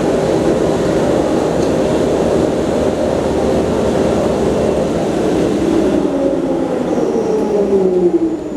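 JNR 101 series electric train sound from the CS-12 main controller demonstration: a steady rumble with a pitched motor whine. From about six seconds in, the whine falls steadily in pitch as the train slows in the braking stage.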